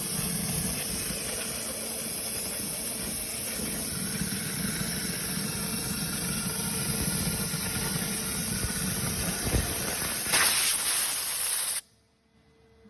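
Steady hissing rush with a low rumble underneath, which cuts off abruptly about a second before the end.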